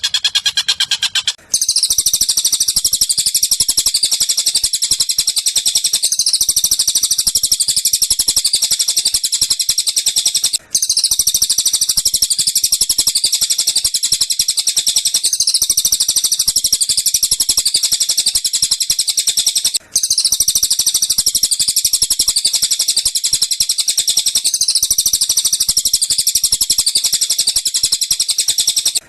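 Recorded bird song: a dense, very rapid chirping trill, high-pitched, played as a loop that repeats about every nine seconds with a brief break between repeats.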